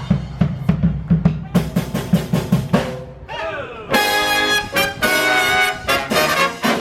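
Brass band playing: a snare and bass drum beat a quick rhythm alone for about three seconds, then trumpets and trombones come in with loud held chords about four seconds in.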